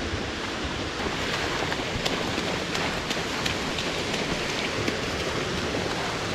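A 46-foot waterfall pouring onto rock and pool: a steady rushing splash with scattered sharp drips and spatters through it.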